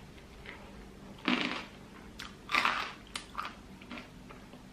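A person eating, with crunchy bites and chewing close to the microphone: two louder crunches about a second apart, then fainter chewing.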